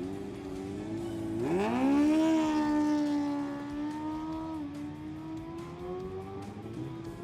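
Superbike engine revving hard: the pitch sweeps up sharply about a second and a half in and holds high. It dips briefly near the middle, then climbs slowly again. Background music runs underneath.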